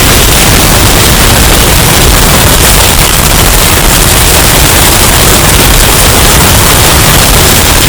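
Hurricane wind sound effect, bass-boosted and overdriven into a very loud, steady, distorted wall of noise with a heavy low end.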